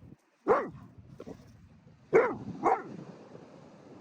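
A dog barking: one sharp bark, then two in quick succession about a second and a half later.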